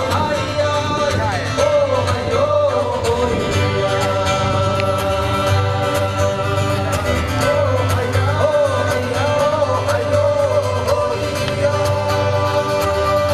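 Live concert music: a singer's voice rising and falling over a band, with held instrumental notes and a steady bass.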